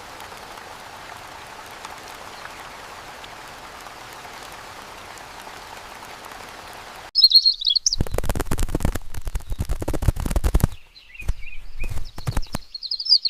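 Steady rain hiss that cuts off suddenly about seven seconds in. Small birds chirping follow, with a dense run of loud clicks and crackles for a few seconds.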